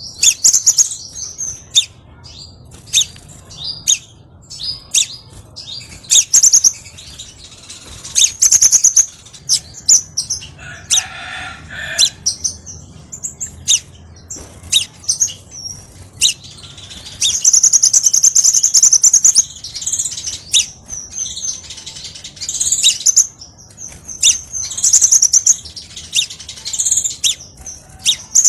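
Crimson sunbird song: rapid high-pitched chirps and sharp ticking notes, with a lower, harsher call near the middle and a long fast trill a little past halfway.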